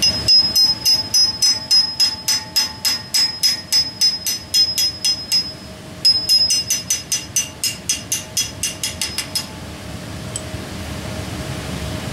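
A brass hammer striking a homemade driver to seat a soft plug in the front of a 5.7 V8 block, in two runs of ringing metallic taps about four a second. The second run speeds up before the tapping stops about nine and a half seconds in.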